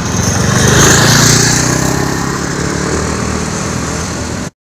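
A motor vehicle's engine running close by, swelling to its loudest about a second in and then slowly fading as it passes; the sound cuts off abruptly near the end.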